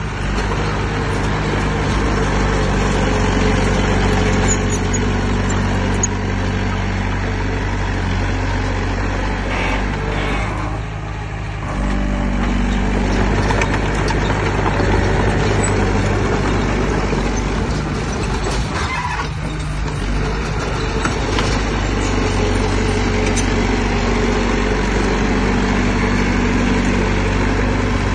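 Heavy diesel engine of earth-moving machinery running steadily with a deep hum, easing off briefly twice as the load changes.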